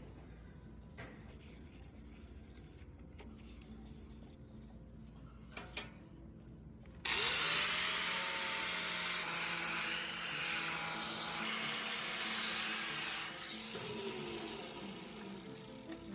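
A few light clicks of handling, then about seven seconds in a power tool starts up, rising in pitch, and works abrasively with a loud steady hiss. It eases off and winds down near the end.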